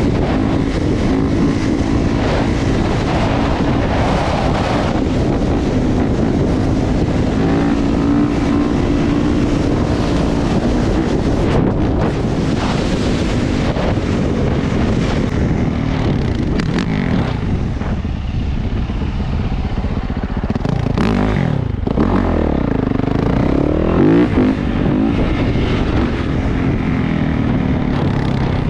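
Motorcycle engine running under way, its note shifting with the throttle; about three-quarters through it drops and then climbs again. A steady rushing noise of wind and road sits under it.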